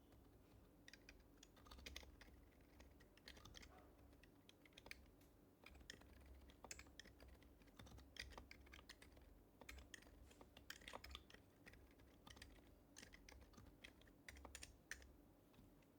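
Typing on an HHKB Professional HYBRID Type-S keyboard, its silenced Topre capacitive switches giving soft, muted keystrokes. The strokes come in quick runs with short pauses, starting about a second in.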